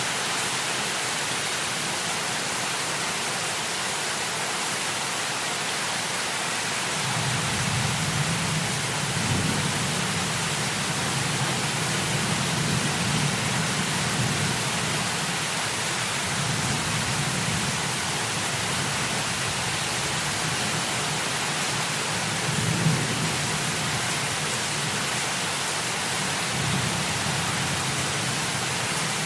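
Steady hiss of heavy rain. A few seconds in, low rolls of thunder begin and recur, with one sharper peak about three-quarters of the way through.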